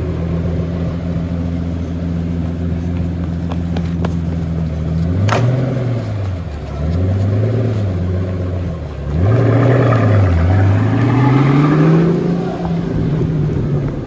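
Pagani Huayra Imola's twin-turbo V12 idling steadily. A sharp click comes about five seconds in, then the engine note rises and falls several times as the car moves off. A louder, longer rise in pitch follows as it pulls away.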